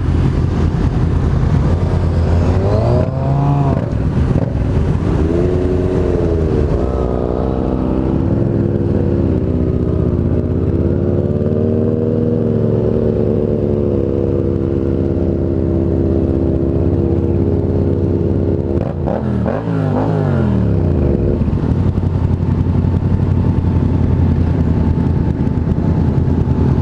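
Motorcycle engine running on the road, its pitch rising and falling with the throttle; about two-thirds of the way through the pitch drops steeply as the bike slows or shifts down.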